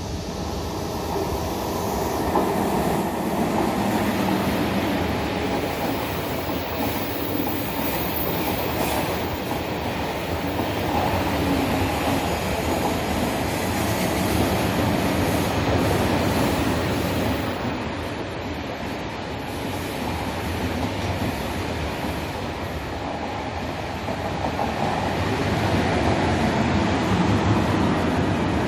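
KTX-Sancheon high-speed trains running past on the main line at low speed: a steady rumble of wheels on rail and running gear. It grows louder about two seconds in and swells again near the end as a power car passes close.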